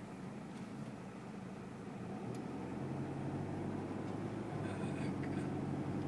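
Toyota Hilux SW4 diesel engine and road noise heard from inside the cabin while driving slowly: a steady low hum that grows a little louder from about two seconds in.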